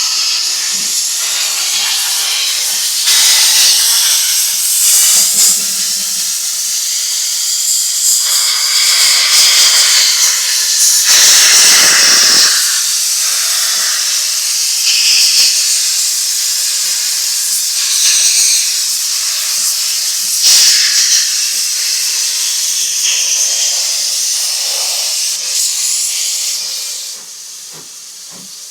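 Narrow-gauge steam locomotive hissing loudly as steam escapes, a continuous high-pitched hiss that surges now and then and drops away sharply near the end.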